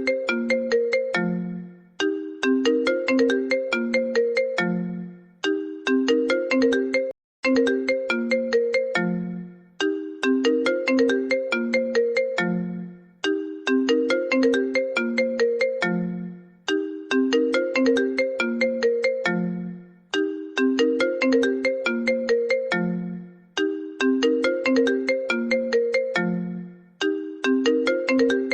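An iPhone ringtone: a short melody of bright, stepping notes looping over and over, restarting about every three and a half seconds. The sound drops out completely for a moment about seven seconds in.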